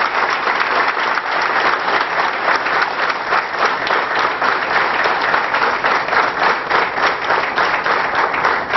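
A room full of people applauding: many hands clapping steadily.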